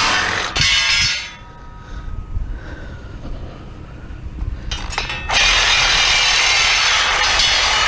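A power tool running loud, shutting off about a second in, then starting up again after about four seconds, with a few clicks and rattles in the pause.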